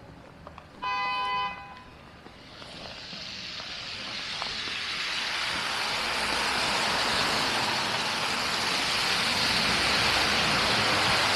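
A vehicle horn gives one short toot about a second in. Then a hiss of passing traffic swells over several seconds and stays loud.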